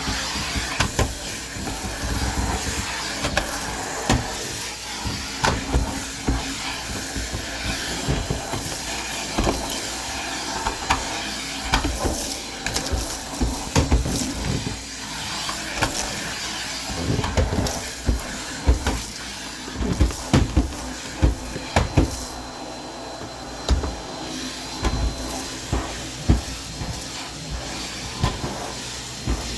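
Vacuum cleaner running steadily, with many short sharp clicks and knocks scattered through the noise.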